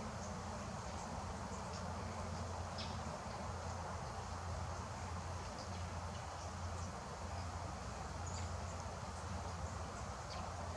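Steady outdoor background with a constant low hum, and faint short high ticks now and then.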